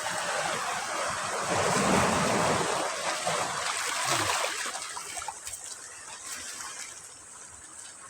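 Sea waves breaking on a beach: a wave crashes, loudest about two seconds in, then its wash slowly fades away.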